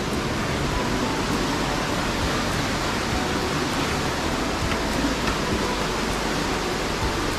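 Steady rushing of water from a waterfall, an even noise with no change.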